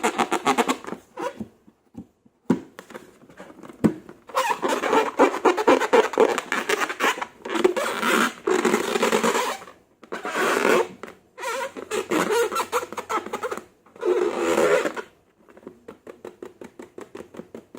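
Slime being worked, squelching and crackling with dense little clicks and pops in irregular bursts, with short pauses between handlings.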